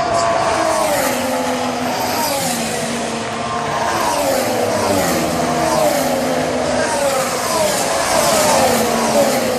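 Formula One car engine at racing revs, its high-pitched note repeatedly sliding down in pitch and jumping back up.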